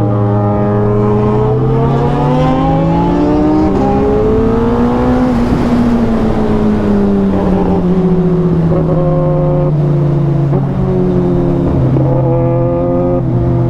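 Superbike's inline-four engine running under way, its pitch rising steadily for about five seconds, then falling back and holding fairly steady.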